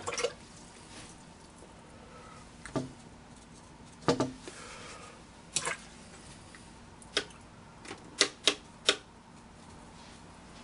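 Sharp, irregular clicks and taps of a paintbrush knocking against a palette during watercolour mixing, about eight in all, with a quick run of three near the end.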